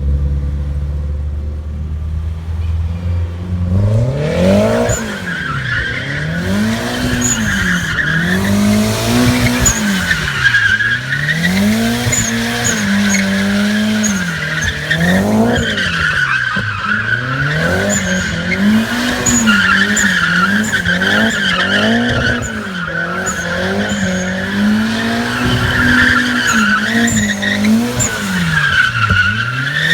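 Turbocharged Subaru engine idling, then from about four seconds in revving up and down again and again as the rear-wheel-drive car drifts, with its tyres squealing continuously.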